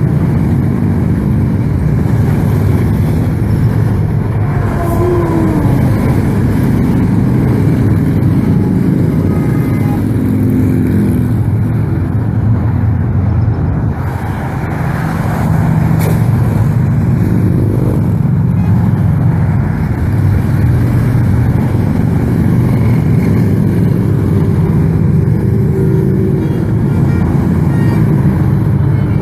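A long stream of motorcycles rumbling past in a convoy, a steady dense drone of many engines with occasional horn toots.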